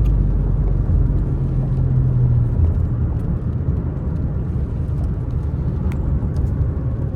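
Steady low road and engine rumble inside the cabin of a moving Subaru Outback Touring XT with a turbocharged four-cylinder, with a low hum that fades about two and a half seconds in.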